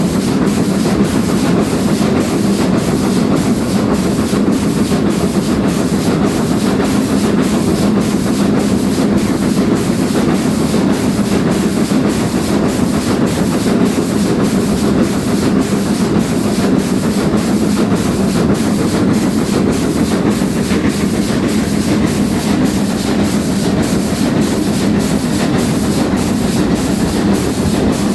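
Steam-hauled train behind GWR Castle class 4079 Pendennis Castle running on the line: a steady, heavy rumble of wheels on rail with a faint regular beat, unbroken throughout.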